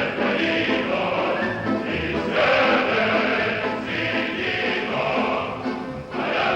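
A choir singing, several voices holding sustained notes together.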